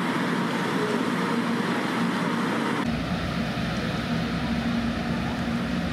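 Steady hum and rushing noise from a rail yard with shinkansen trains standing by. About three seconds in, the sound changes abruptly and a strong low rumble comes in.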